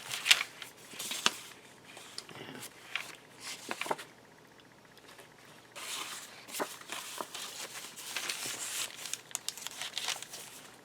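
Paper rustling and crinkling as the pages and tucked-in cards of a handmade paper journal are handled and turned, in bursts with a short pause about four seconds in.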